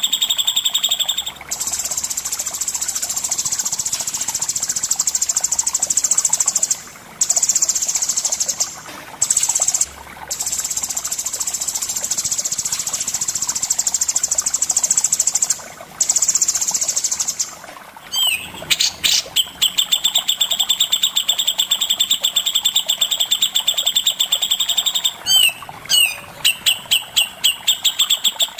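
Songbird song of the kind recorded for masteran training: long, very fast, high-pitched trills broken by a few short gaps, then from about 18 s a rapid run of repeated clear chirps.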